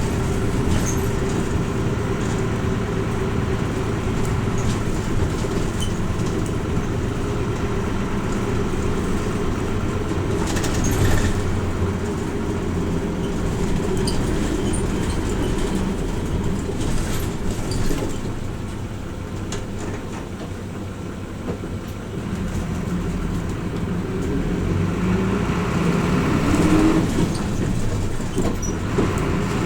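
Hino Rainbow RJ (P-RJ172BA) city bus running, heard from inside the cabin: diesel engine and road noise. The engine eases off and goes quieter for a few seconds in the middle, then its note climbs as the bus accelerates near the end, with a few brief knocks and rattles along the way.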